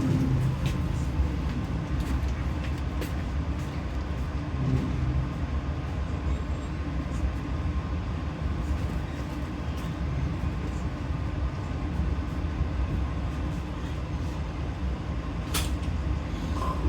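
Steady running rumble of a passenger train on the rails, heard from inside the carriage, with a few sharp clicks near the end.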